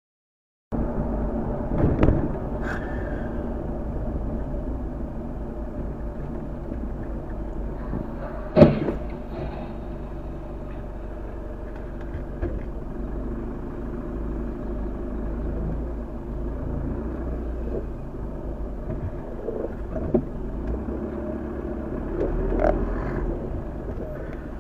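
A car on the road with a steady engine and road noise, broken by one sharp, loud bang about eight and a half seconds in and a few smaller knocks.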